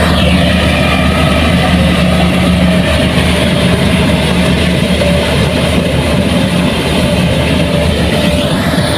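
Heavy diesel engine of farm machinery running steadily at a constant speed, with a deep, even hum.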